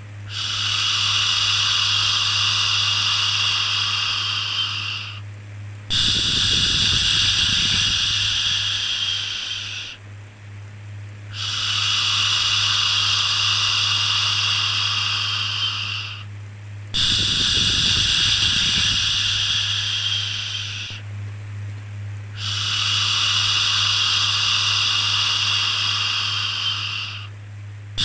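A long 'shhh' shushing sound, repeated five times, each shush lasting four to five seconds with short pauses between, over a steady low hum. It is the looped shushing used to soothe a baby to sleep.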